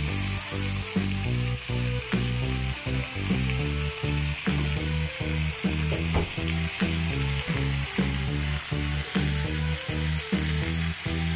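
Diced chicken sizzling steadily in hot oil in a frying pan. Under it runs background music with a steady low beat of about three notes a second.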